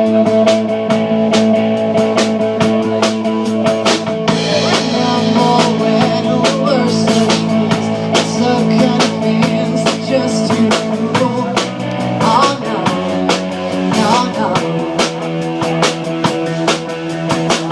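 A rock band playing live without vocals: a drum kit keeps a steady beat under sustained chords, with a wavering lead line weaving over them in the middle of the passage.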